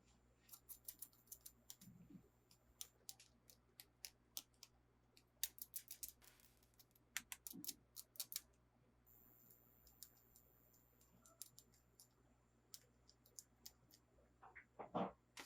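Faint, scattered sharp clicks and taps of toy packaging and hard plastic toy parts being handled during an unboxing, with a brief rustle midway and a louder knock near the end.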